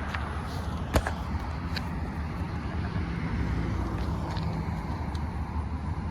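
Outdoor background with a steady low rumble, like traffic, and one sharp click about a second in.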